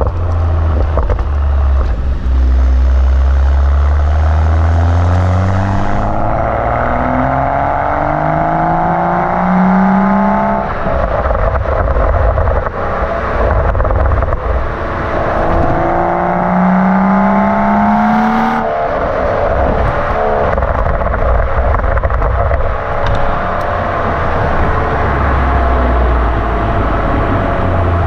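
BMW M135i's M-Performance end-silencer exhaust with its valves open, rumbling low, then revving up twice with the engine note climbing steadily for several seconds. Each climb is cut off suddenly before the rumble returns.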